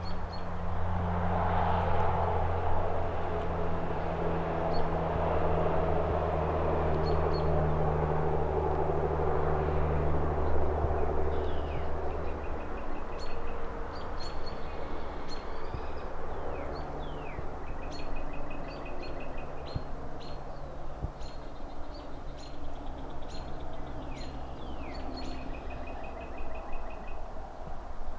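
A passing vehicle's low rumble and tyre noise fills the first half and fades out. Small birds then chirp over a steady distant traffic hum, giving repeated short high calls and quick trills.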